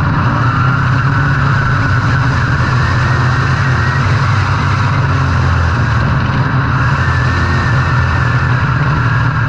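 Dirt-track race cars' engines running loud and steady at speed during a heat race.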